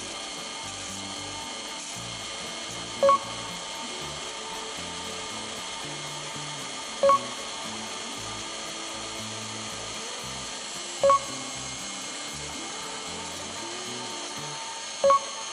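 Bosch GCB-120 band saw running steadily as its blade cuts through a thick-walled steel square pipe. Background music plays under it, and a short loud beep sounds about every four seconds.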